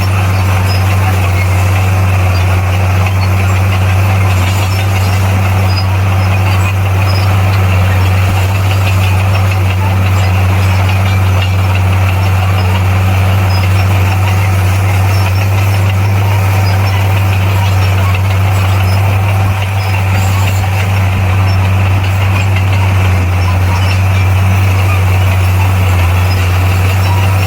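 Komatsu D58P bulldozer's diesel engine running steadily under work, a constant deep drone with no breaks or changes in speed.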